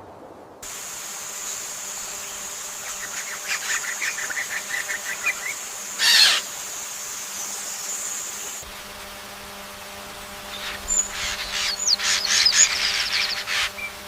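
Rainforest ambience: a steady high-pitched insect drone through the first eight seconds, with bouts of rapid bird chirping. A brief loud rush of noise comes about six seconds in, and a bird gives quick whistled chirps near the end.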